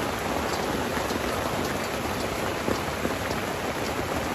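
Heavy rain falling steadily in a downpour, a dense, even hiss of many small drop patters.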